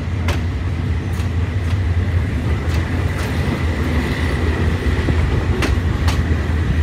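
Passenger train running slowly, heard from aboard a coach: a steady low rumble with scattered sharp clicks of the wheels over rail joints and points, and a faint thin high tone throughout.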